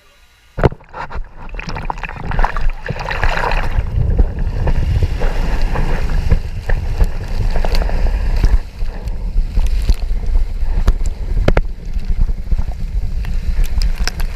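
Riding down a water slide on a mat: rushing water and wind buffeting the action camera's microphone. It starts suddenly about half a second in and stays loud, with frequent knocks and bumps.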